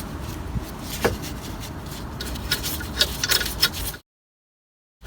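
Sharp metallic clicks and taps of hand tools and brake parts being handled, one about a second in and a quick cluster around three seconds in, over a low steady hum; the sound cuts out completely for about a second near the end.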